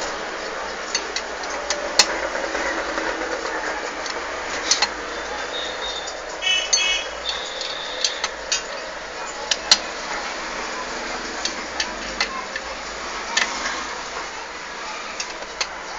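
Irregular metallic clicks and clinks of hand tools on motorcycle engine parts, over a steady background noise.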